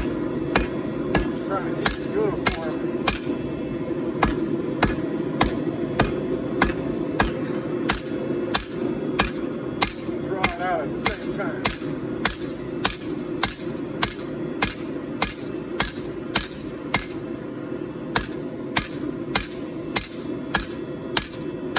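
Hand hammer striking hot 4140 steel on an anvil in a steady rhythm of about two blows a second, each blow with a short metallic ring. The hammering is flattening the blade. A steady rushing noise runs underneath.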